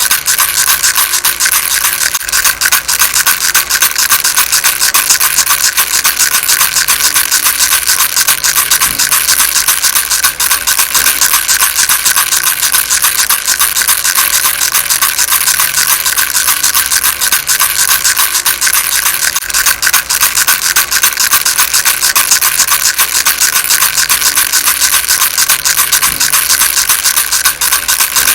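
Baby rattle shaken without a pause: a dense, fast stream of small high-pitched clicks that stays steady and loud.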